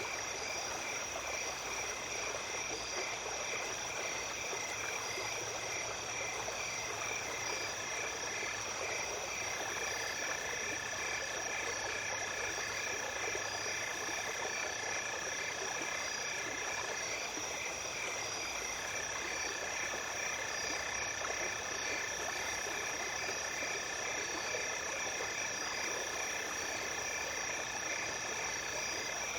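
Small stream running steadily under a chorus of night insects: several high, steady trills and a rapidly pulsing chirp, with a lower trill that breaks off and starts again twice.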